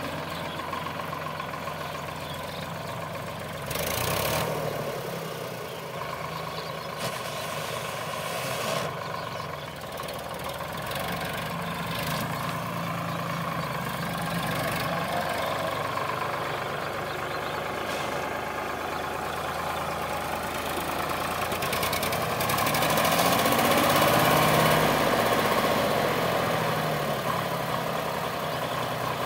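Sonalika DI 745 tractor's diesel engine running steadily, with a brief burst of noise about four seconds in. It grows louder for a few seconds about three quarters of the way through.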